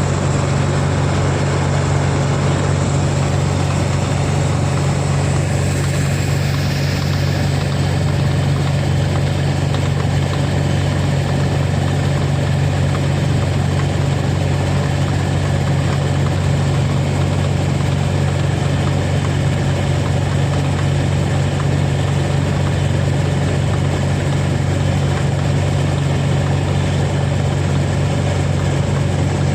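Diesel engine of farm harvesting machinery running steadily at one constant speed, a deep, even drone that does not change.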